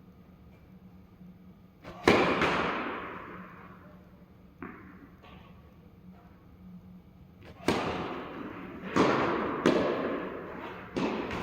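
Tennis rally: a ball struck by rackets and bouncing on the court, heard as a string of sharp pops, some in quick pairs, roughly a second or so apart. The loudest comes about two seconds in, and a faster run of hits follows in the second half.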